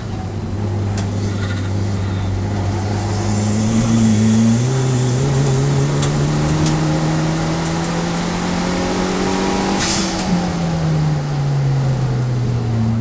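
Turbocharged Fiat Seicento race car's engine heard from inside the cabin under track driving: steady revs at first, then climbing slowly from about four and a half seconds in, then falling away after about ten seconds. A brief hiss comes as the revs start to drop.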